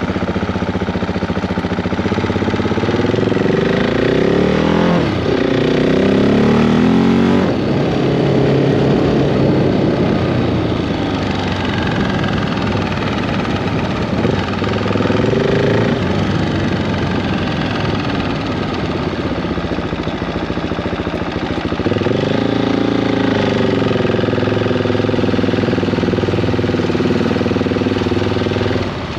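Single-cylinder engine of a freshly rebuilt 2015 KTM 690 Duke running and being revved: the revs climb about two seconds in and hold until about seven seconds, rise briefly again around fourteen seconds, and climb once more about twenty-two seconds in, holding until near the end, with lower running in between. After the crank failure and rebuild, the engine runs healthily.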